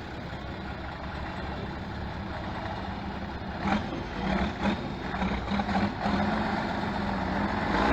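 Truck engine running with a steady low rumble. From about three and a half seconds in it surges in uneven pulses, as if under changing throttle.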